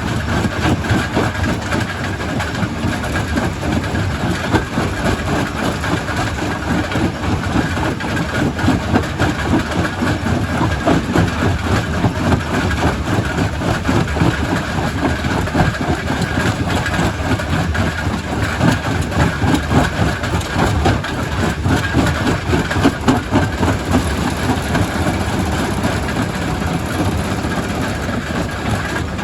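Primary rock crusher running and crushing stone: a continuous heavy machine rumble with dense, irregular crunching and knocking.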